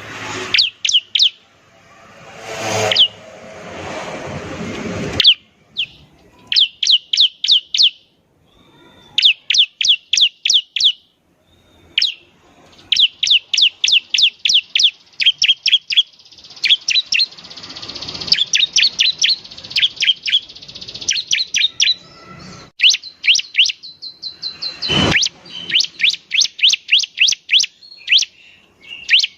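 Bar-winged prinia (ciblek) singing: loud rapid series of sharp, high chirping notes, each run of about half a dozen quick notes, repeated again and again with short pauses. A rushing noise runs under the first five seconds.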